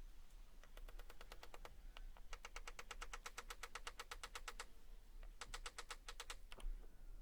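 Light, rapid hammer taps driving a glued wedge into the slot of a wooden hammer handle to lock the head on. They come in three even runs of about ten taps a second.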